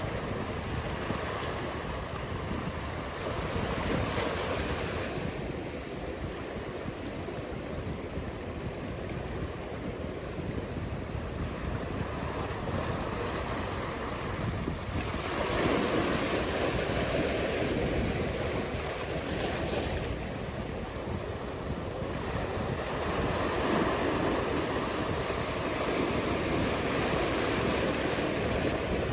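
Ocean surf: waves breaking and washing in as a steady rush that swells louder several times, roughly every ten seconds.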